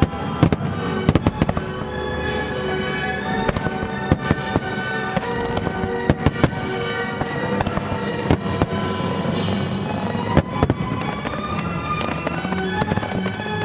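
Aerial fireworks bursting with sharp bangs in clusters, the loudest single bang about ten and a half seconds in, over music playing throughout.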